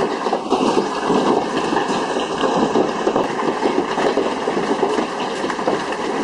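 Large hailstones pounding down in a dense, steady clatter of many small impacts.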